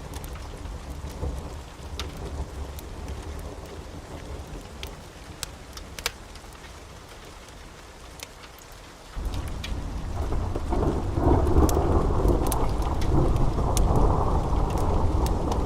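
Wood fire crackling with scattered sharp pops over a low, noisy bed. About nine seconds in, a much louder low rumble sets in suddenly and continues, with the pops still going over it.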